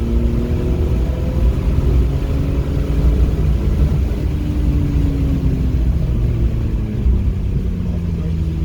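Car engine heard from inside the cabin at speed, its pitch rising slightly at first, then falling away over a few seconds as the revs drop, over a heavy low rumble of road and tyre noise.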